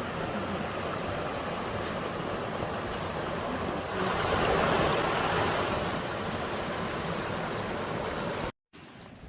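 Water of a small spring-fed stream running steadily, swelling louder for a couple of seconds midway. It cuts off suddenly near the end, leaving only faint background.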